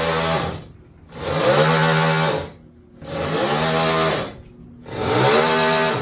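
LG direct-drive top-load washer agitating: the motor runs up and back down in pitch in strokes about every second and a half to two seconds, with a rough grinding noise over each stroke.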